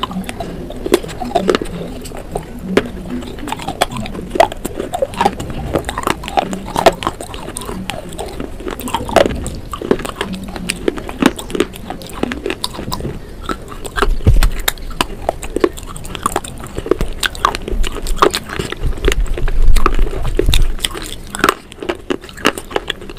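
Close-up crunching and chewing of brittle clay-pot pieces coated in wet paste: a steady run of sharp, irregular cracks and wet mouth sounds, with a few deeper, heavier crunches around the middle and near the end.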